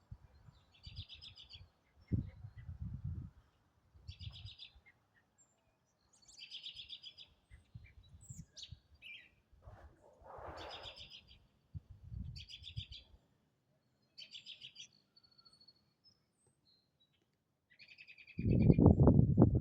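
A songbird singing the same short, buzzy phrase over and over, roughly every two seconds. Low rumbles run underneath, with the loudest one near the end.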